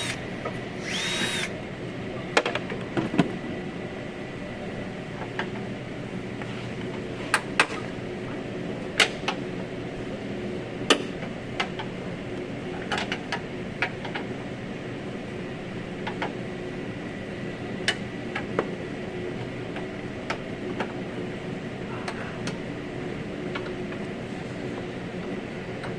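A short whir of a power tool about a second in, then scattered sharp clicks and knocks of hand work on the car's front-end parts, over a steady background hum.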